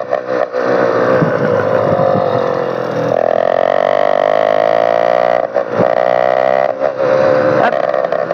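Motorized bicycle engines running loud through bare exhaust pipes with no muffler, the pitch held fairly steady with a couple of brief dips as the throttle is eased.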